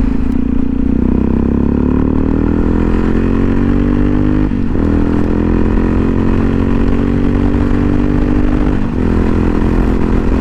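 Motorcycle engine accelerating hard under the rider, its pitch climbing, with a quick upshift about halfway through and another near the end, over wind noise on the helmet microphone.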